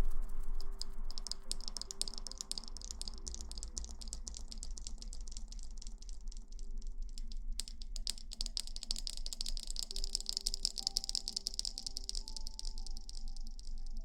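Hair being scrubbed close to the microphone, heard as a fast, dense crackling rustle that grows fuller in the second half, over soft background music.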